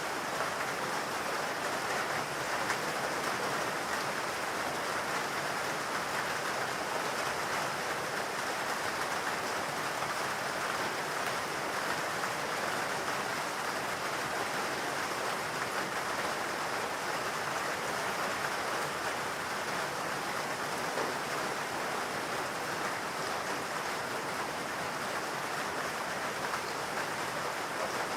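Steady, even rain falling in a forest, a dense patter of drops without pauses.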